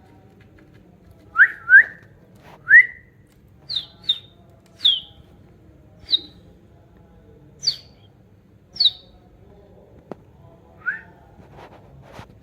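Budgerigar giving short, separate chirping calls, about ten of them roughly a second apart, some lower and some higher pitched. A single sharp click comes about ten seconds in.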